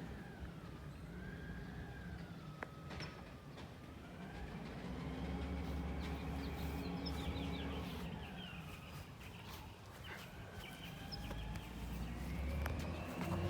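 Peterbilt 320 garbage truck with an Amrep body cycling its hydraulics. The engine revs up under load in the middle and again near the end, while a hydraulic whine rises and falls in pitch, with a few sharp clanks.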